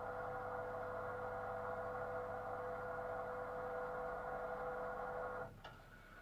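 Dishwasher running with a steady, tone-rich hum that cuts off abruptly with a click about five and a half seconds in, leaving a much quieter hum.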